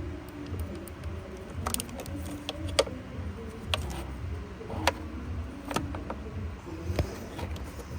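Scattered light clicks and taps from hands handling parts and wiring near a car's starter, about six of them a second or so apart, over a low steady hum.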